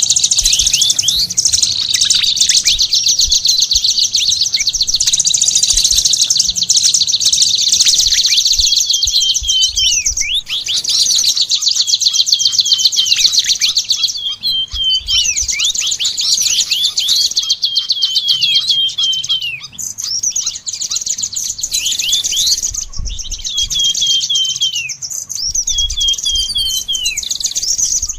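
Caged songbirds singing continuously: a fast, high-pitched chattering trill with repeated runs of short, downward-sliding whistled notes, the kind of sunbird and songbird mix used as a master recording for training cage birds.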